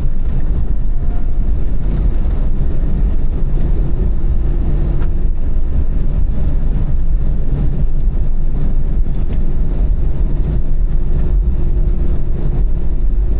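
Steady cabin rumble of an Airbus A321-231 taxiing, its IAE V2500 engines running at low thrust, with a faint steady hum above the low roar.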